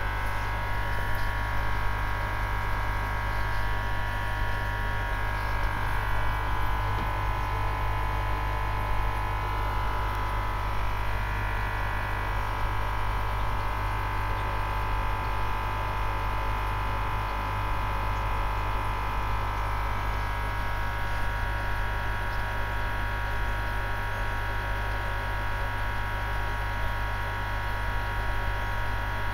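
Aquarium pump humming steadily with water circulating, plus a higher whine that drifts slightly in pitch.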